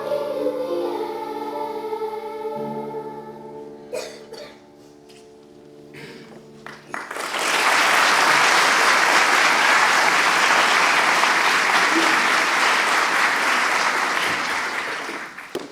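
A children's choir and its accompaniment hold the last notes of a song, which die away; about halfway through, an audience breaks into applause that runs for about eight seconds and then stops.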